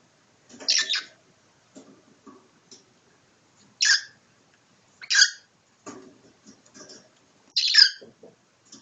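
Cockatiel giving four short, harsh calls a second or two apart, in a defensive 'fight' with a person.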